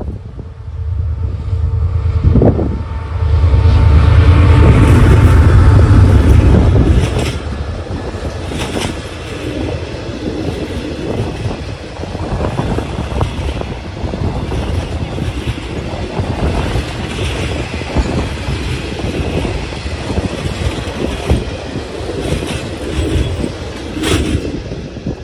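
A passenger train hauled by a CRRC Qishuyan diesel-electric locomotive passes close by. The locomotive's engine rumble builds and is loudest between about three and seven seconds in. Then the coaches roll past with a steady clatter of wheels on the rails until the last one clears near the end.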